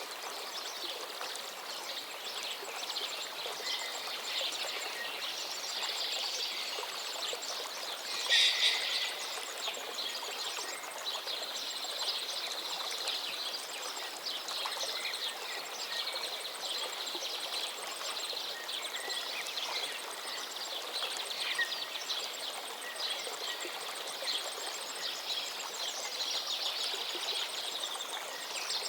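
River water flowing over stones in a steady rushing hiss, with a brief louder splash-like burst about eight seconds in. Faint bird chirps sound over the water.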